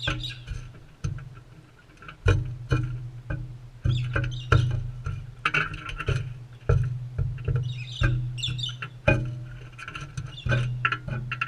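Crimson rosellas feeding right at the microphone: irregular clicks and taps of beaks working seed, with short soft chirps.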